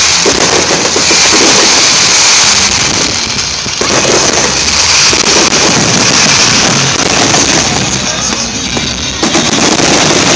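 Fireworks going off in quick succession, a dense and continuous run of bangs and crackling with no gaps, with music playing along.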